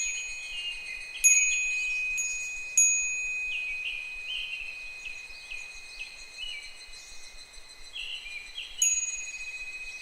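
A furin (Japanese wind chime) struck by the wind a handful of times: about a second in, twice more around two to three seconds in, and again near the end, each strike ringing on with a clear high tone. Behind it, higurashi (evening cicadas) call in a run of short notes, each sliding down in pitch.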